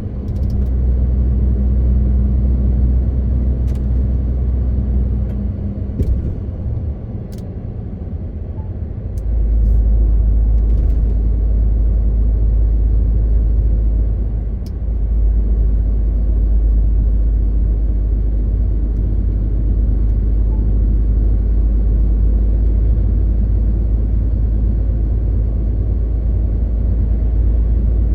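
MAN TGX 18.520 truck's inline-six diesel engine running on the road, a steady low drone. The drone drops away from about six to nine seconds in, then comes back strong, and dips briefly again about halfway through.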